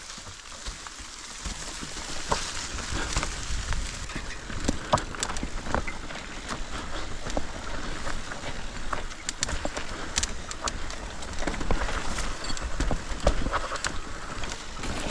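Mountain bike riding over a rough, rocky trail: tyres crunching on stones, with the chain and frame rattling in quick irregular clicks over a low rumble.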